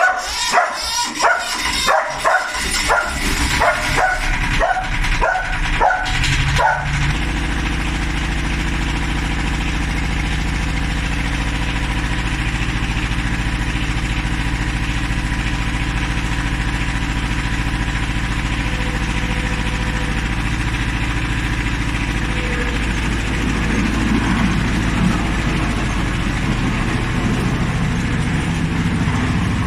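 A dog barks repeatedly for about the first seven seconds. Then a tractor engine starts and runs steadily, its note shifting a little near the end.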